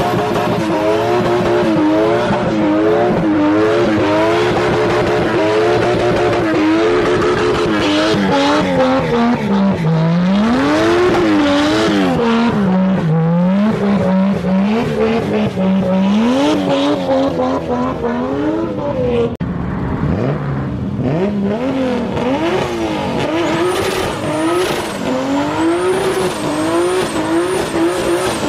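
A car engine revving hard during a burnout, its pitch swinging up and down again and again as the driver works the throttle, with the tyres spinning. It drops off briefly about two-thirds of the way through, then revs up again.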